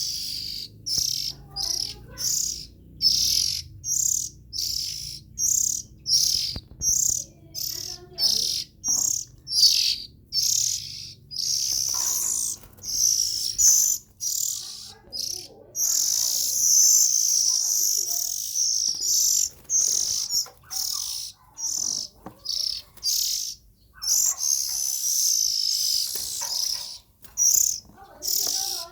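Young Oriental magpie-robin singing: short, high chirps repeated about twice a second, running into a longer stretch of continuous warbling song in the middle, then separate chirps again near the end.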